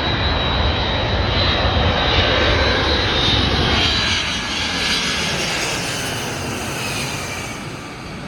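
Boeing 767-300ER jet airliner passing close overhead, a loud engine roar with a high whine that slides down in pitch as it goes by, then fading away over the last few seconds.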